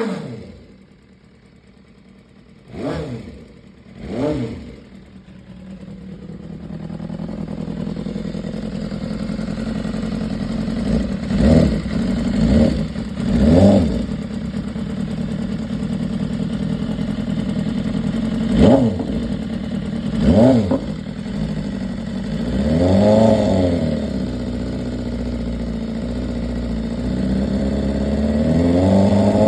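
2015 BMW S1000RR's inline-four engine running, with a series of short, sharp throttle blips and one longer rise and fall in revs. It settles into higher, steadier running near the end. The owner reports a top-end ticking noise in this engine.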